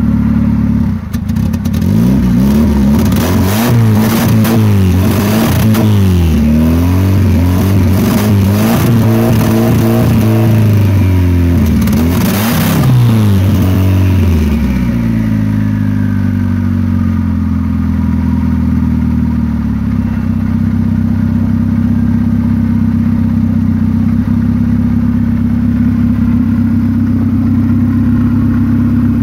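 Honda engine swapped into a Mitsubishi 3000GT, heard at its exhaust outlet: it is revved up and down repeatedly with sharp crackles among the revs, then settles to a steady idle about halfway through.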